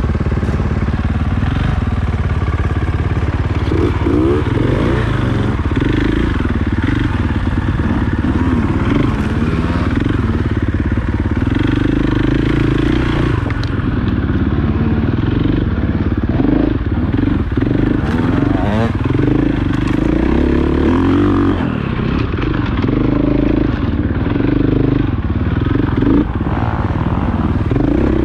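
Off-road motorcycle engine running continuously, its pitch rising and falling with the throttle, with scattered clattering as the bike rides over rough dirt trail.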